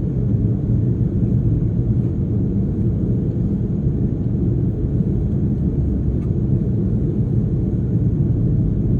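Airbus A330-300 jet engines running at idle on the ground, a steady low rumble with no change in pitch or level.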